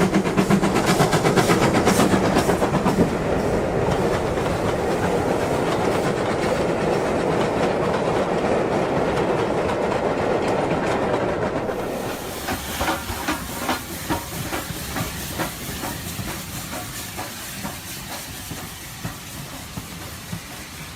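Model train running on the layout's track, a steady rumble with regular clicking of wheels over rail joints. About twelve seconds in it gets quieter, and the clicks grow spaced out and fade as the train moves away.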